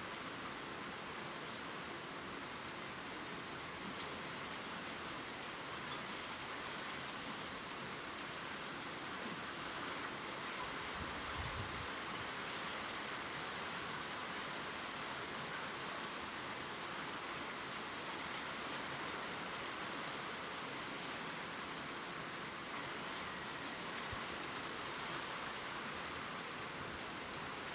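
Gentle rain falling steadily on leaves, an even hiss with faint scattered drip ticks.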